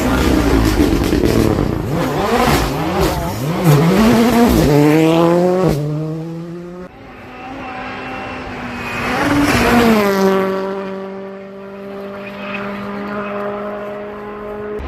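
Rally cars at full stage pace: an engine revving hard with quick up-and-down swings in pitch through the gear changes, then another car whose note rises and falls as it passes and then holds steady.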